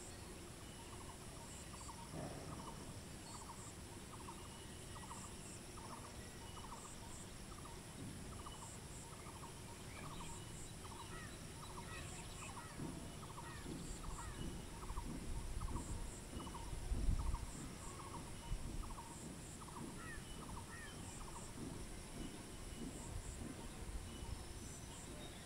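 A bird calling a short, slightly falling note over and over, about three calls every two seconds, over faint paired high-pitched ticking. A low rumble swells about two-thirds of the way through and is the loudest moment.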